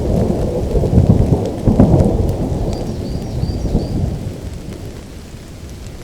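Rolling thunder over steady rainfall. The rumble is loudest about one to two seconds in and then dies away, leaving the rain.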